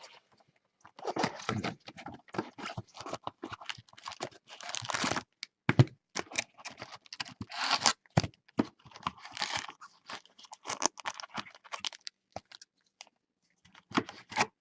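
Baseball card packs being torn open and their foil wrappers crinkled, with the cards and wrappers handled in a quick, irregular run of crackles and clicks.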